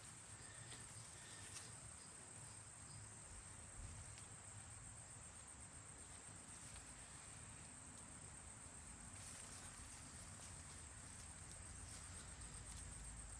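Insects chirping in a steady, high-pitched, finely pulsing drone, with a few faint ticks.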